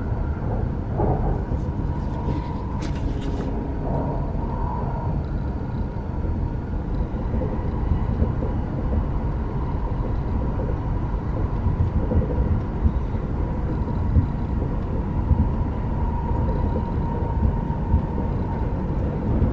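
Steady low rumble of a Tohoku Shinkansen bullet train running at speed, heard from inside the passenger cabin, with a faint steady high hum over it. A few brief soft clicks come about two to three seconds in.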